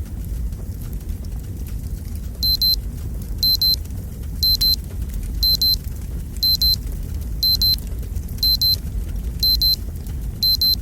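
Fireplace fire burning with a low rumble and faint crackle; about two and a half seconds in, a digital timer alarm starts beeping in quick pairs, one pair a second, signalling that the countdown has ended.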